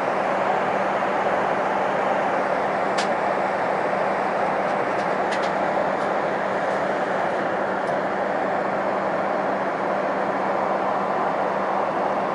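Steady cabin noise of a jet airliner in cruise: engine and airflow noise with a low steady hum, and a few faint clicks.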